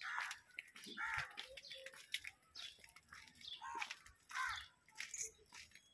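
Birds calling outdoors, a string of short separate calls, with a sharper high call about five seconds in.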